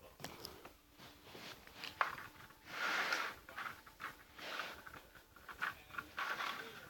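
Small plastic Lego pieces handled and fitted into a model: scattered light clicks and soft rustling, with a louder rustle about three seconds in.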